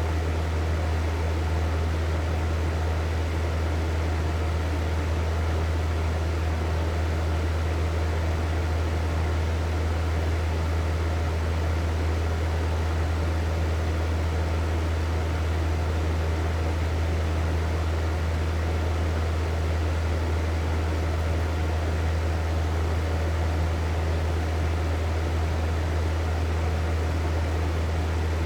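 Hair dryer running steadily, its motor hum low and constant under an even rush of blown air.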